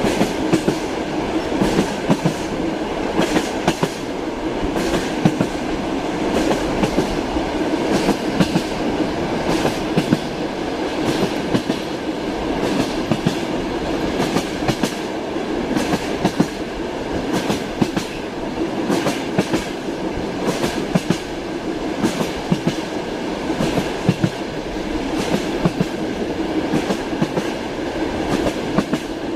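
Passenger train running steadily, heard from inside a compartment: a continuous rumble with the clickety-clack of the wheels over rail joints, frequent sharp clicks throughout.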